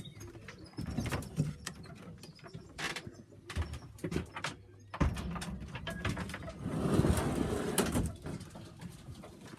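Pigeons cooing in a loft, with scattered knocks and clatter and a louder stretch of rustling and scraping from about five to eight seconds in.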